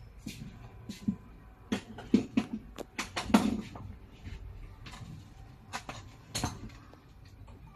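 Irregular sharp clicks and knocks, about a dozen, the loudest about three and six seconds in, over a faint low hum.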